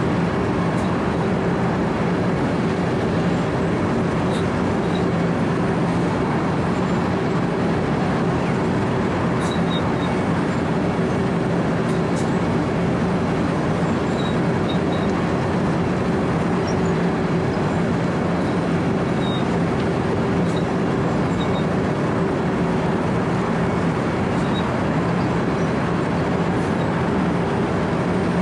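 Compact 4-foot cold milling machine, a Wirtgen W 120 CFi, running steadily while milling asphalt: a loud, unbroken drone of engine and cutting drum with a constant low hum, no change in load.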